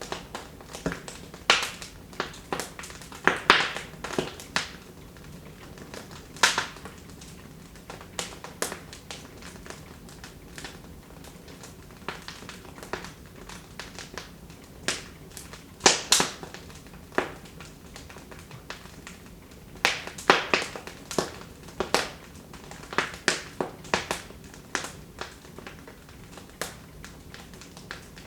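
Wood fire burning in a fireplace, crackling with irregular sharp pops and snaps over a faint steady hiss, the pops bunching into brief flurries.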